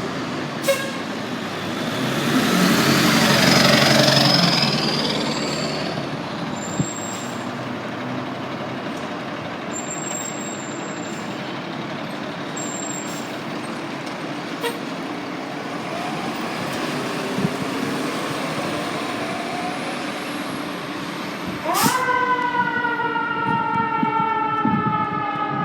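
Fire engine responding with its siren and horn. It is loudest a few seconds in, with a sweeping siren tone and a low horn blast. About 22 s in the siren winds up sharply, its pitch climbing and then slowly falling.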